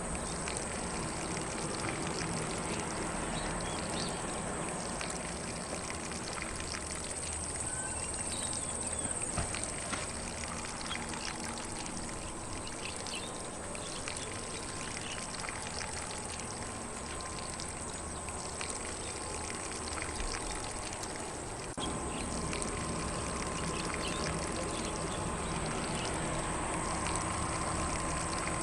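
Lawn sprinkler spraying water over grass: a steady hiss of spray with light spattering.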